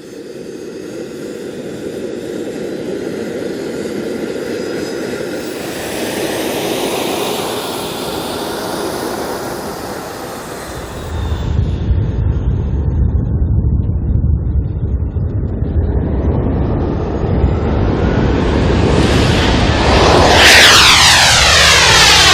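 Military jet fighter's engines roaring, growing louder throughout; a deep rumble joins about halfway, and the loudest moment comes near the end as the jet passes close.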